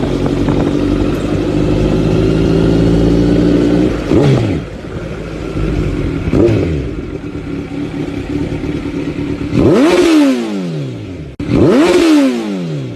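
A vehicle engine running steadily, then revving up and dropping back four times.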